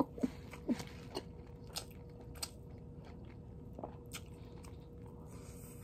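A person chewing a mouthful of pancit noodles, with short wet mouth clicks, several in the first second, then fewer and fainter.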